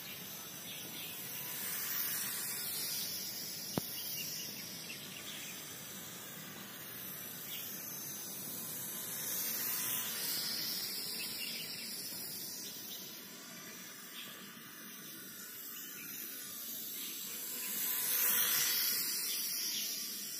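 Micro electric RC biplane's motor and propeller buzzing in flight, growing louder and fainter several times as it passes, loudest near the end. A single sharp click about four seconds in.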